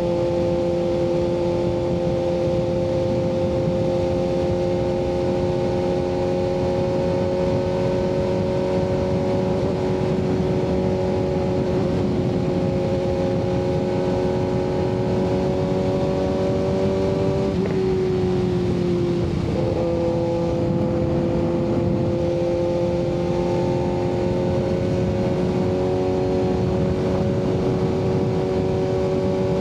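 Kawasaki ZX-6R 636's inline-four engine through an M4 aftermarket exhaust, running at a steady cruise from the rider's seat. Its pitch creeps slowly upward, then breaks and dips briefly about two-thirds of the way through before holding steady again.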